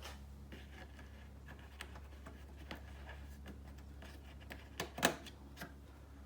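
Light clicks and taps of plastic trim being handled and pressed into place, with a sharper pair of clicks about five seconds in, over a steady low hum.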